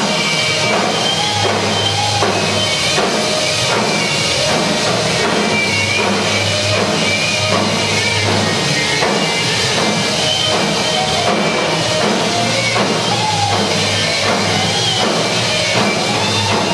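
Drumline percussion played with a rock-and-roll backing track. Dense, steady drum hits sit over a bass line and a wavering melody, all loud and continuous.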